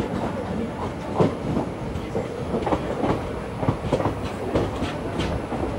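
Indian Railways passenger train running, heard from on board the coach: a steady rumble of wheels on the track with irregular sharp clicks and clatter of the wheels over rail joints.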